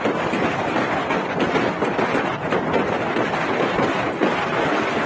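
Steady road noise of a truck running along a highway.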